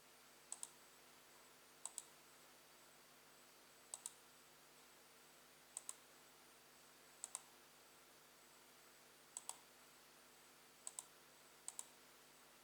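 Computer pointer-button clicks, each a quick double click a split second apart, about eight times at irregular gaps of one to two seconds, over a faint steady hum.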